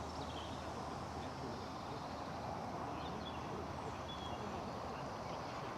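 Outdoor background: a steady low hum and noise with a few faint, short bird chirps.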